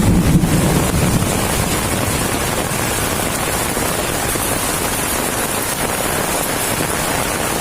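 Steady loud rushing of a rain-swollen flood torrent, with a heavier low rumble in the first second.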